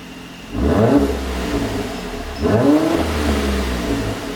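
Mercedes-AMG C43 (W205) twin-turbo 3.0-litre V6, running a pop-sound exhaust tune, blipped twice from idle, about two seconds apart: each rev climbs quickly in pitch and falls back toward idle.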